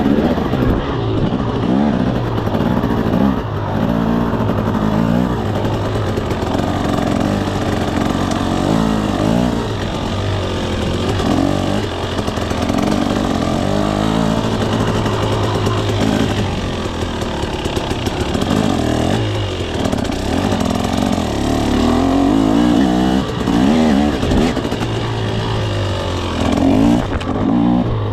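KTM 300 SX two-stroke dirt bike engine being ridden, revving up and down again and again as the throttle is opened and closed.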